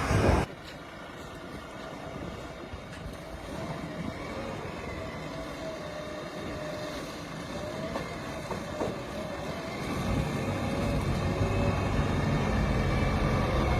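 Diesel engine of heavy earth-moving machinery running, steady with a faintly wavering pitch, growing louder over the last few seconds. A louder sound cuts off abruptly about half a second in.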